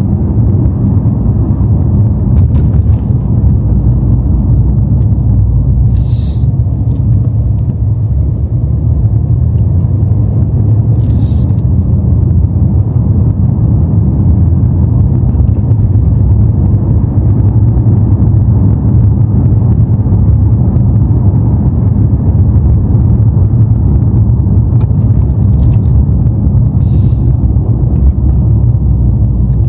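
BMW M5 on the move: a steady low rumble of engine and road noise, with three short hisses along the way.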